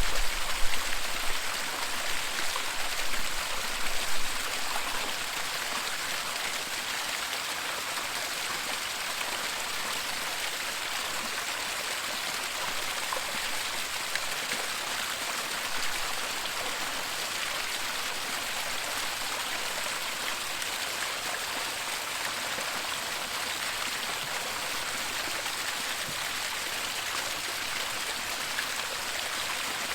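Waterfall: steady rushing and splashing water, a dense even hiss. A few low bumps stand out in the first four seconds or so.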